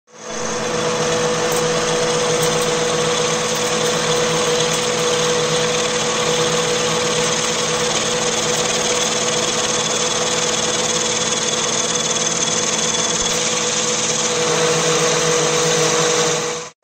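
Electric motor of a workshop machine running steadily at constant speed with an even whine, stopping abruptly near the end.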